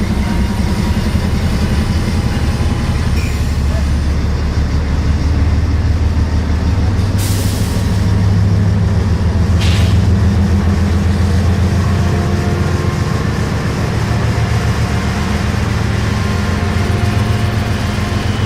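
Diesel locomotives running close by with a loud, steady low throbbing rumble. Two short hisses come about 7 and 10 seconds in.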